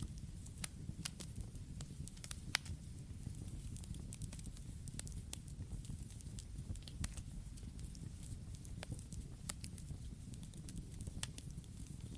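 Campfire burning: irregular sharp crackles and pops over a low, steady rumble of the flames, with one louder pop about two and a half seconds in.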